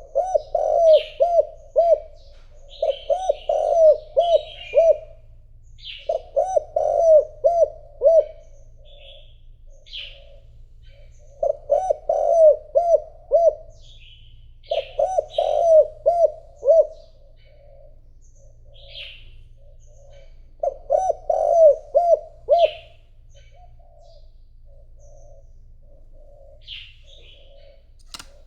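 Decoy spotted dove cooing in about six repeated phrases, each a run of several quick low coos, with softer coos between them. Small birds chirp faintly higher up.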